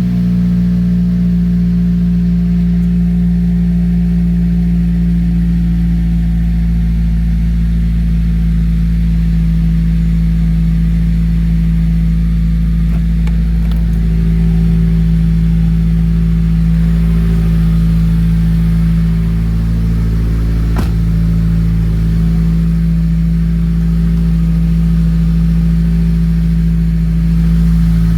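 Subaru WRX's turbocharged flat-four engine idling steadily just after being started.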